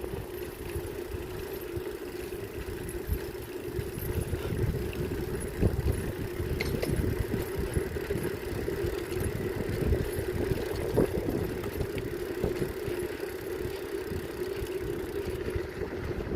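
Bicycle ride: wind rumbling and gusting on the microphone over a steady mid-pitched hum, with a few scattered clicks and rattles.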